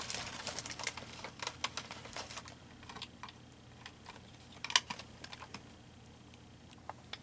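Small hard craft supplies clicking and rattling against each other as they are rummaged through by hand. The clatter is dense for the first few seconds, comes again in a short cluster about five seconds in, then thins to a few scattered clicks.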